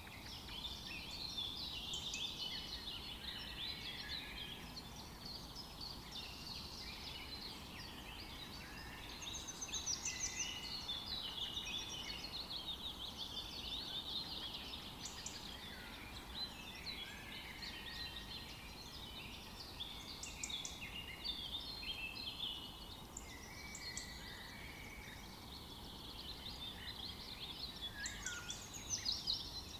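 Forest birdsong chorus: several small birds chirping and trilling at once in dense, overlapping high calls, over a faint low background hiss.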